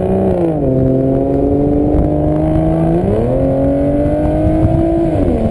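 Aston Martin DBS's V12 engine roaring under load, its pitch dropping just after the start, jumping back up about three seconds in, climbing slowly, then falling away near the end.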